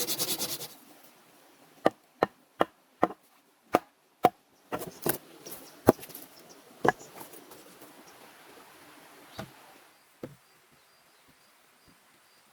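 Wood being chopped with a hand tool: about a dozen sharp, separate strikes, coming in quick succession at first and then more sparsely.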